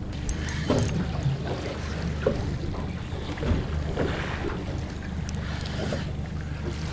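Wind buffeting the microphone over water lapping against a small drifting boat's hull, with a few short knocks.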